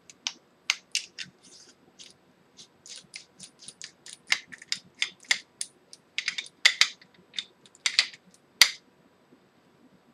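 Irregular sharp clicks and ticks of small metal hardware being handled and a screw being driven into a rifle rail section, stopping near the end.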